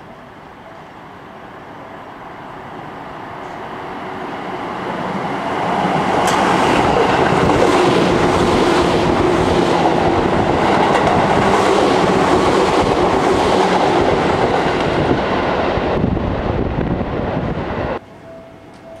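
Seibu 4000 series express train running through the station without stopping: its rumble builds over the first few seconds, then stays loud for about ten seconds with repeated clacks of the wheels over the rail joints. The sound cuts off suddenly near the end.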